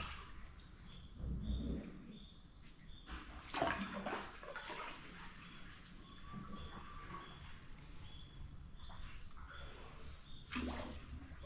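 Paddle dipping and splashing in calm lagoon water every few seconds, over a steady high-pitched buzz of insects.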